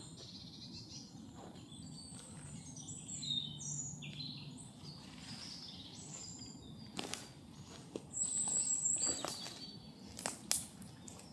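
Forest birds chirping: many short, high calls. Near the end one thin, very high call is held for about a second, and there are a few sharp clicks.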